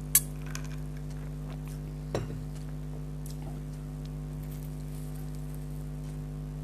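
Steady electrical hum, broken by two short crackly eating sounds, one just after the start and one about two seconds in, with a few fainter ticks: bites and chews of crunchy fried kachori at the microphone.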